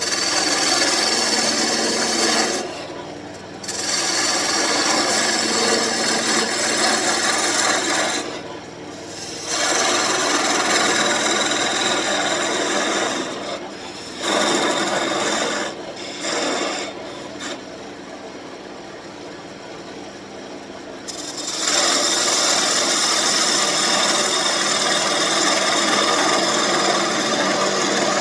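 A turning tool scraping and cutting a spinning birch blank on a wood lathe, in several long passes with short breaks, the lathe's motor humming steadily underneath.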